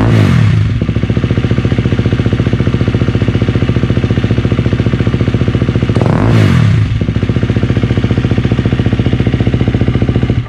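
KTM 250 EXC-F's single-cylinder four-stroke engine idling through an FMF 4.1 slip-on exhaust, with two quick throttle blips: one right at the start and another about six seconds in, each rising and dropping back to idle.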